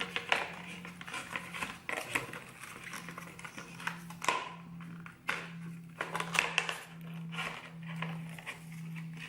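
Plastic packaging crinkling and rustling in irregular bursts as it is handled and pulled at by hand, over a low steady hum.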